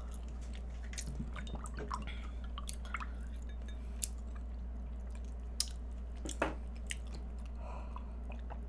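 Chewing and wet mouth sounds of soft egg tart being eaten, with sips of a milky coffee through a straw. Small scattered clicks run throughout, with two sharper ones about five and a half and six and a half seconds in, over a steady low hum.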